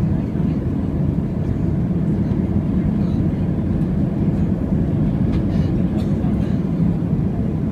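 Steady, loud low rumble inside the cabin of an Airbus A320 airliner in motion around landing, with a few faint rattles in the second half.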